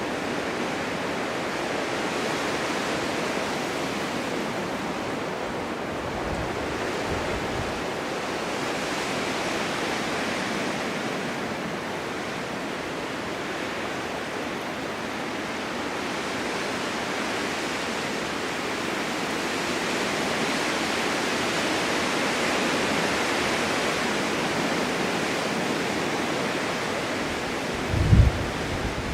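Strong winter wind blowing steadily in a snowstorm, swelling and easing in slow gusts, with a couple of low buffets on the microphone near the end.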